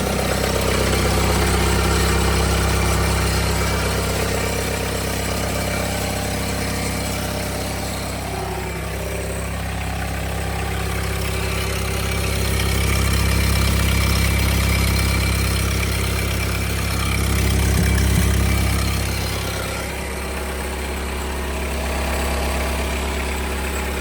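Four-cylinder Kubota diesel engine idling steadily just after a cold start, warming up.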